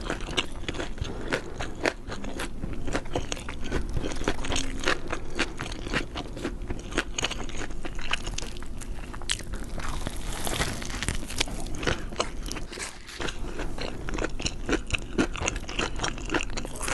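Close-miked biting and chewing of crispy fried chicken: dense, crackling crunches in quick succession, with chewing between bites.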